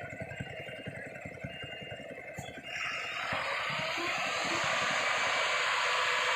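Heavy truck's diesel engine running with a rapid low throb, then about three seconds in a loud rushing noise swells up and holds to the end.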